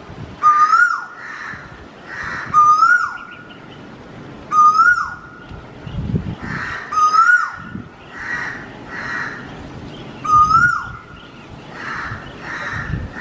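A bird's whistled call repeated about every two seconds: a short steady note that rises slightly and then drops away sharply. Harsher, noisier bird calls fall in between.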